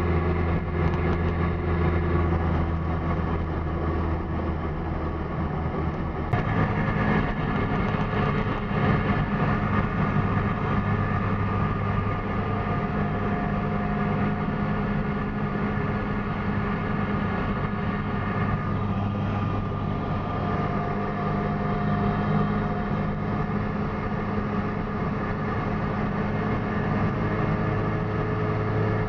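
Goggomobil's two-stroke twin engine running steadily under way, with road and wind noise. About six seconds in there is a click, and the engine note steps up and holds at the new pitch.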